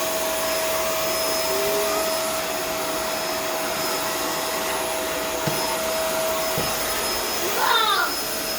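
Vacuum cleaner running steadily with a constant motor hum and airflow noise. A brief sound sweeping up and down in pitch rises over it near the end.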